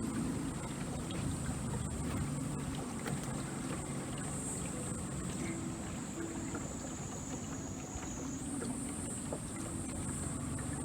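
Small sightseeing boat moving along a castle moat, its motor running steadily with a low rumble and water noise. A thin high whine runs over it and steps slightly higher about eight seconds in.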